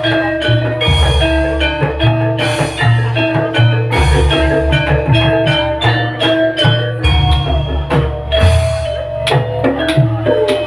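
Live music from a Javanese percussion ensemble: mallet-struck metallophones play a repeating melody over drums with a steady beat.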